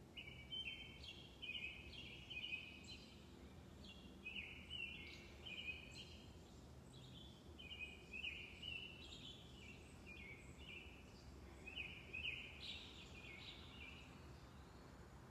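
Songbirds chirping in the surrounding trees: a near-continuous run of short, high chirps, with a faint steady low rumble of background noise underneath.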